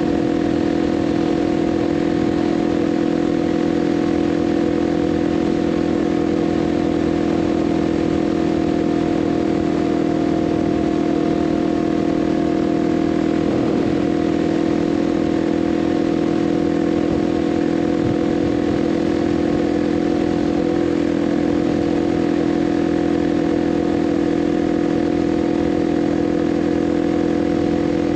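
Kawasaki KLX 300 single-cylinder engine running at a steady cruise, one constant engine note with no change in pitch or loudness.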